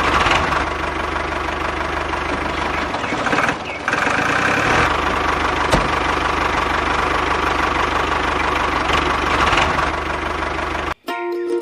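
A small machine motor running steadily with a rattling hum, dropping out briefly about three and a half seconds in. Near the end it cuts off abruptly and plucked-string music begins.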